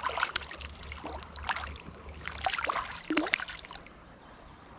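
Irregular clicks, knocks and light trickling water as a just-caught channel catfish is handled at a kayak, settling quieter near the end.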